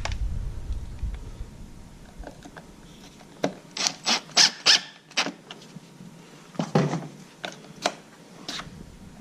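A screw being driven back into the plastic housing of a RedMax EBZ7500 backpack blower, squeaking and scraping in short strokes. The strokes are bunched a few seconds in, with a few more near the end.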